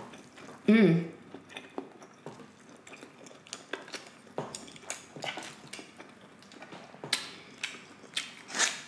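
Close-miked chewing: soft wet mouth clicks and smacks of someone eating fried egg and noodles, with a short hummed "mm" about a second in.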